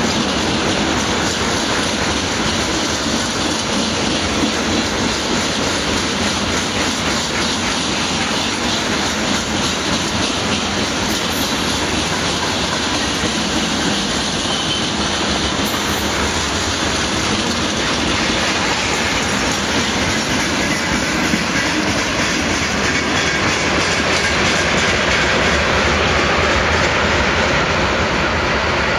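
Freight train of railway tank cars rolling past. The steel wheels clatter steadily over the rail joints in a continuous stream of clicks.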